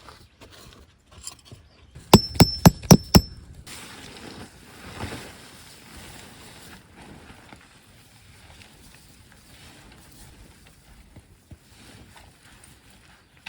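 Five quick metallic strikes with a ringing tone, about a quarter-second apart, just over two seconds in: a tent peg being hammered into the ground while pitching a tent.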